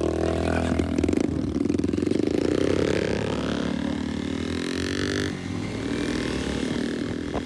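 Motorcycle engine running under way, its pitch climbing steadily for a few seconds as it accelerates, then dropping about five seconds in.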